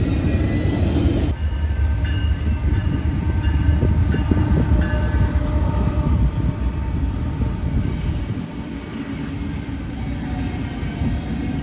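Freight train rolling past with a steady, heavy low rumble. The sound changes abruptly about a second in, as at a cut between takes.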